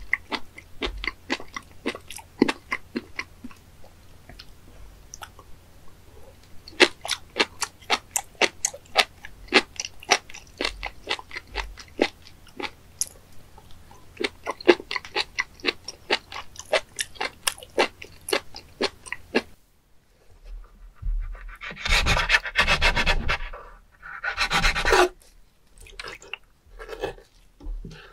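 Close-up chewing of raw fat innkeeper worm (gaebul) pieces: many sharp, crisp crunching clicks. About two-thirds of the way in they stop, and wet squelching and gushing follow as a knife slits open a whole worm and its fluid runs out.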